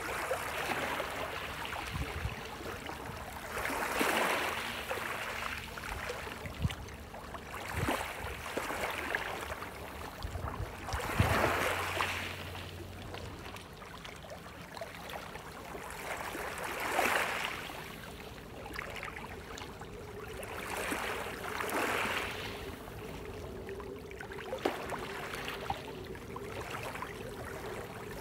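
Small sea waves washing against the shore: a surge of splashing wash every few seconds over a steady rush of water, the strongest about a third of the way in.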